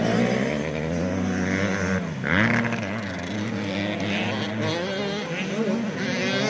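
Several 85cc two-stroke motocross bikes racing, their engines revving up and down at overlapping pitches; about two seconds in one drops in pitch and then climbs again.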